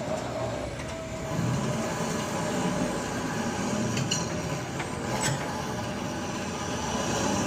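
Steady mechanical rumble from glue-removal work, with a couple of brief sharp clicks or scrapes about four and five seconds in.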